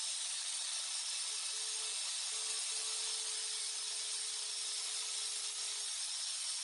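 Belt sander grinding the steel of a hatchet head: a steady, even hiss with a faint steady hum underneath.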